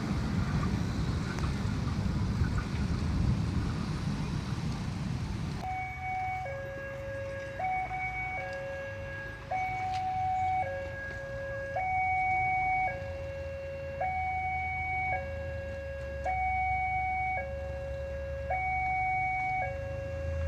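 A train running past the level crossing with a heavy, rumbling clatter that stops abruptly about six seconds in. Then the crossing's electronic warning alarm sounds, an even high–low two-tone signal alternating about once a second, with a low vehicle engine hum growing near the end.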